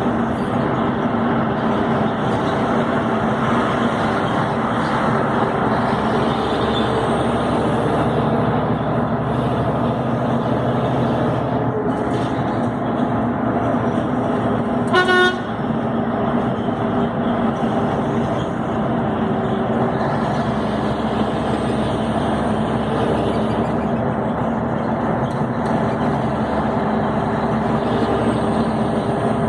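Scania 112 truck's diesel engine running steadily on the move, with one short vehicle horn blast about halfway through.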